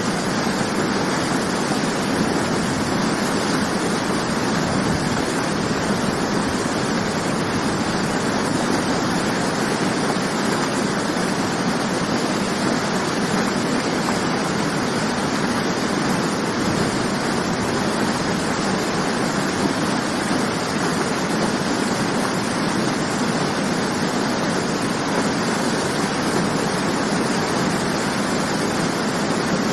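Waterfall, a steady rush of falling water with no change in level or character.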